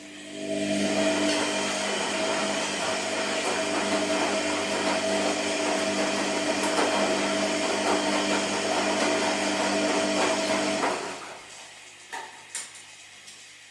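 Washing machine motor running with a loud, steady whir and whine. It starts about half a second in, stops after about ten seconds, and is followed by two short clicks.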